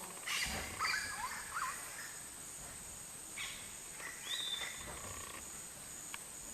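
Amazon rainforest ambience: a steady high-pitched insect drone, with short animal calls over it, looping chirps early on and a high whistled note with a falling tail about four seconds in.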